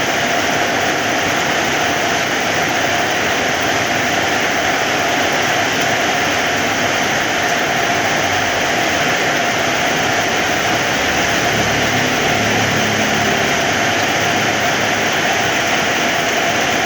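Heavy rain falling, a loud, steady, dense hiss that does not let up.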